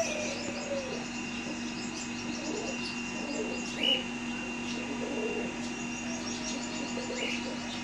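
Birds chirping and twittering over a steady hum, with a short louder call about four seconds in and another near the end.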